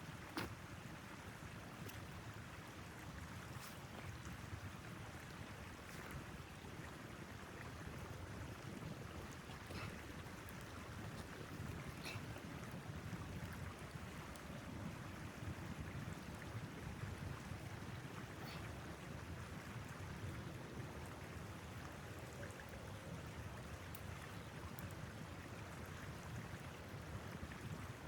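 Storm wind blowing steadily, a low rushing noise with a few faint ticks scattered through it.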